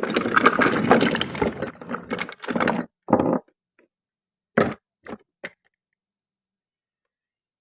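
Toy wooden or plastic fruit being cut and handled: a dense rasping, scraping stretch of about three seconds, one short burst, then three separate knocks a little later.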